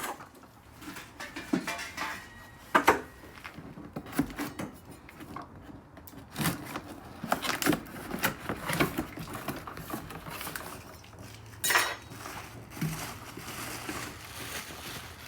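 A propane heater being unboxed: cardboard and packing rustling, with scattered knocks and metallic clinks as the heater's parts are lifted out and handled.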